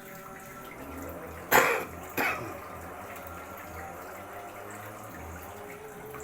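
A person coughs twice in quick succession, the first cough louder, over a steady trickle of water.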